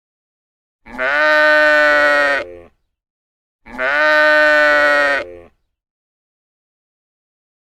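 A livestock animal's call, the same call given twice, each about two seconds long and fairly steady in pitch.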